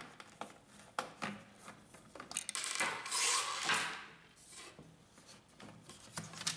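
Hand work on the plastic housing of an HP LaserJet P1102 laser printer as two screws are taken out of its underside: scattered clicks and knocks, with a longer rubbing scrape about three seconds in.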